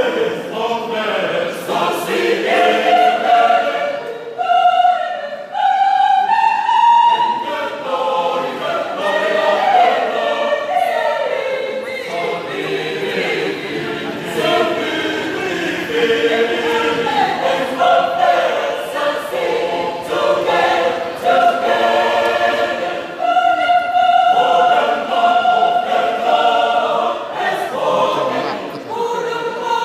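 Choir singing in harmony, several voices moving together, with some long held notes about two-thirds of the way through.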